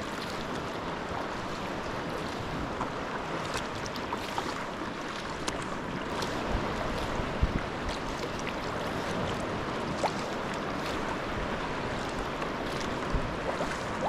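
Sea kayak being paddled on open water: steady splashing and rushing of water from the paddle blades and along the hull, with a few sharper splashes.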